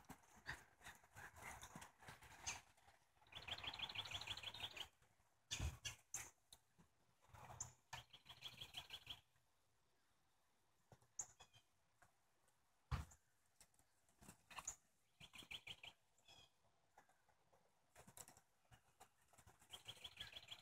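A bird's short, rapid, high trill repeats four times, several seconds apart, over faint rustling. A few sharp knocks stand out, the loudest about six and thirteen seconds in.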